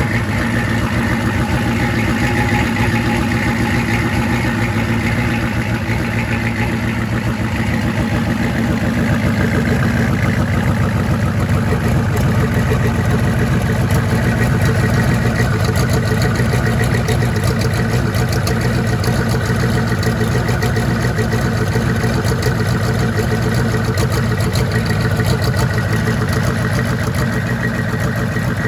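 An engine idling steadily, with an even, rapid beat of firing pulses.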